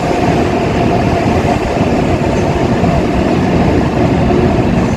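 Shinkansen train approaching along the platform track: a steady rumble with a faint held whine, slowly growing louder.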